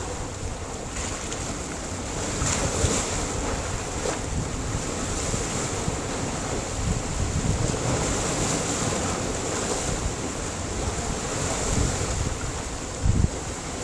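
Sea surf washing and breaking on a rocky shore, a steady rushing wash, with wind buffeting the microphone and one short, louder buffet near the end.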